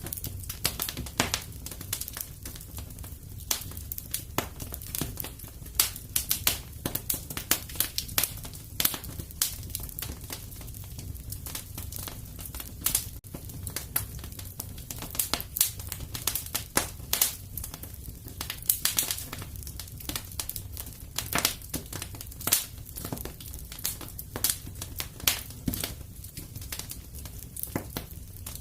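Fireplace fire crackling: irregular sharp pops and snaps, several a second, over a low steady rumble of the flames.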